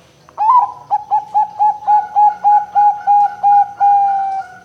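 Zebra dove (perkutut) cooing its song: a higher opening note, then about a dozen quick, evenly spaced notes, about four a second, ending on one longer note that fades away.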